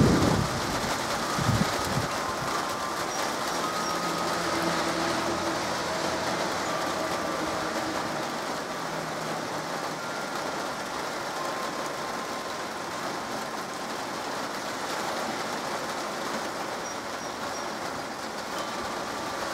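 Steady rain falling, an even constant hiss. Under it runs a faint humming drone at a few steady pitches, mostly through the first half. There is a brief low bump about a second and a half in.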